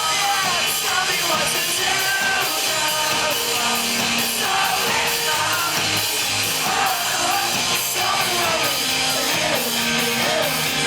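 A live pop-rock band playing loudly, with a steady drum beat and cymbals, and voices singing and yelling over it.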